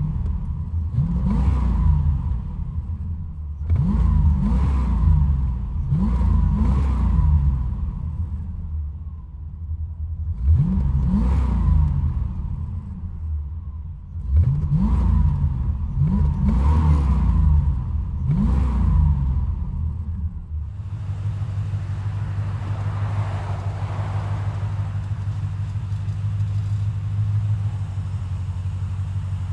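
C4 Corvette's 5.7L V8 on Flowchaser mufflers, heard from inside the cabin, revved in a series of quick blips, about eight in all. About 21 seconds in, it changes to a steady, even rumble as the car drives off.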